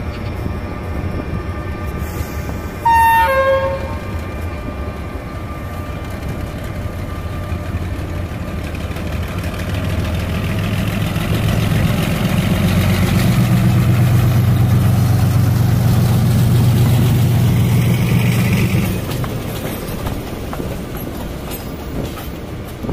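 Train at a railway station: a short horn blast about three seconds in, then the locomotive's engine running with a low steady hum that grows louder from about ten seconds in and falls back near nineteen seconds.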